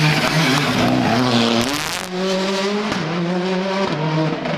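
Rally car's engine accelerating hard. Its pitch climbs, drops back at quick upshifts about two, three and four seconds in, then climbs again.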